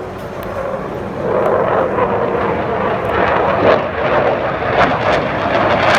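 Fighter jet engine noise from a jet flying past, a loud rushing sound that swells about a second in.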